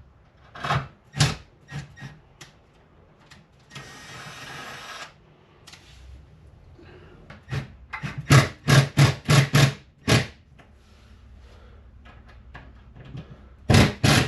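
Hammer blows on the wall during dryer-vent repair work: two sharp knocks, a rasping noise lasting about a second around four seconds in, then a quick run of about six blows and two more near the end.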